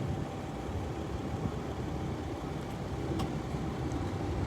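Steady low rumble of a jet airliner's engines, with a faint steady tone riding on it.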